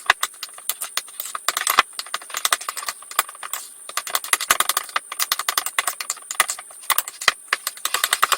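Cottage-cheese filling being stirred hard in a bowl, the utensil clicking and knocking against the bowl in a fast, uneven patter.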